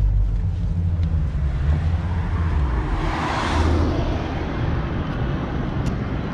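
A car engine idling with a steady low rumble. About three seconds in, a brief rush of noise swells and fades.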